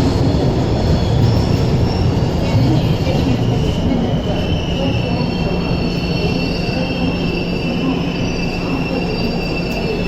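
Passenger train running on the rails with a steady rumble, its wheels giving a thin high squeal that strengthens from about four seconds in.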